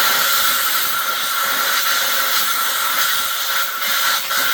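Compressed air hissing steadily from a nozzle: a loud, even, unbroken hiss that starts abruptly.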